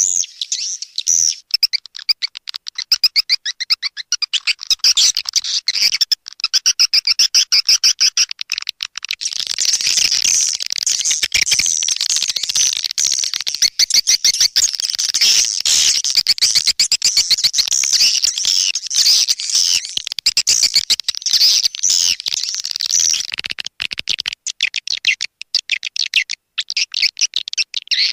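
Swiftlet call lure: a dense, rapid, high-pitched chittering and twittering of swiftlets, the kind of call track played to draw swiftlets into a nesting house. The twittering is thickest and most continuous through the middle and breaks into sparser, quick clicking chirps near the start and end.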